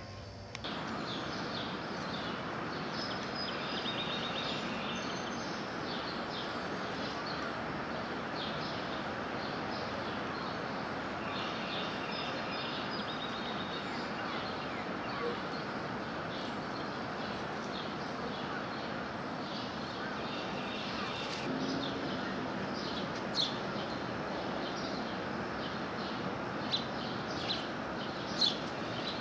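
Backyard songbirds chirping and trilling on and off over a steady background hiss, with a few sharper, louder chirps near the end.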